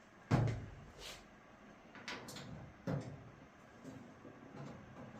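Knocks and clicks of hardware being handled during dryer reassembly: a heavy knock about a third of a second in, a lighter one at about a second, a couple of clicks around two seconds, and another knock near three seconds.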